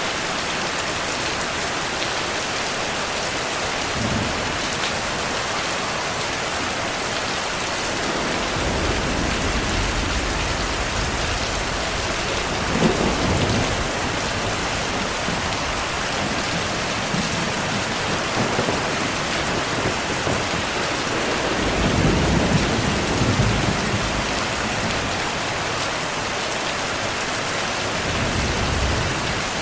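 Steady heavy rain with rolls of thunder rumbling in and out several times, the loudest peaks about a third of the way in and again about three quarters of the way through.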